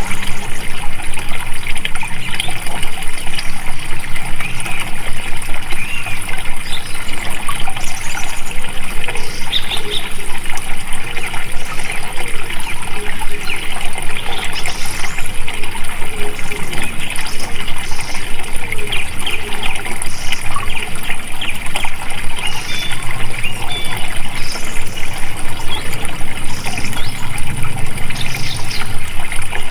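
Water flowing and trickling steadily, with small birds chirping in short high notes every second or two.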